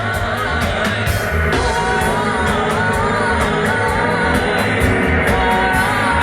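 Live roots reggae band playing: a heavy bass line and drums with a steady hi-hat about four strokes a second, under a wavering melody line.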